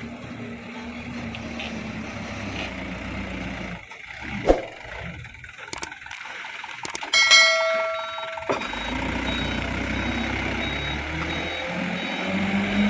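Mitsubishi Super HDX dump truck running steadily, broken by a sharp knock and a few clicks. About seven seconds in comes a loud pitched blast lasting about a second. The engine then runs steadily again under a rapidly repeating high beep.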